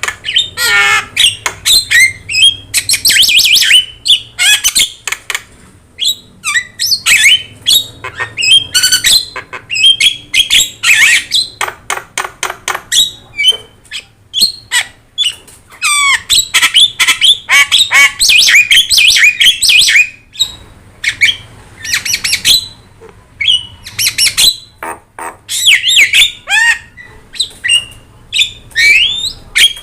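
Javan myna singing without pause: a busy run of harsh squawks, whistled rising and falling notes and rapid chatter, in short phrases separated by brief pauses.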